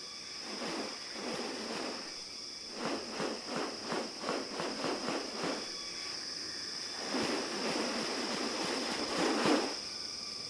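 Rainforest ambience with a steady high insect drone. A run of rapid rattling pulses comes about three seconds in, and a longer rustling swell comes near the end.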